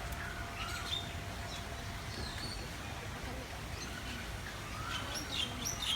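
Several birds chirping and whistling with short, scattered calls and a quick cluster of higher calls near the end, over a steady low rumble.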